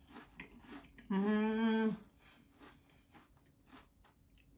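Crisp, crunchy chewing of a piece of mountain-vegetable tempura, faint crackles throughout, with a closed-mouth 'mmm' hum of enjoyment held for most of a second, about a second in.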